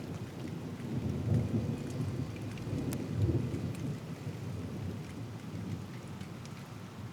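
Thunder rolling over steady rain, swelling about a second in, loudest around three seconds, then slowly dying away. Scattered raindrops tick sharply close to the microphone.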